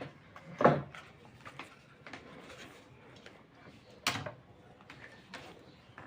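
Scattered light clicks and taps of small tools and parts being handled during soldering work on an amplifier board, with two louder sharp knocks: one just under a second in and one about four seconds in.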